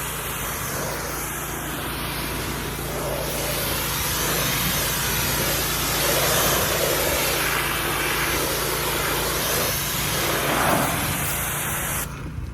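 Water spraying steadily, a continuous rushing hiss with a low hum under it, cutting off abruptly near the end.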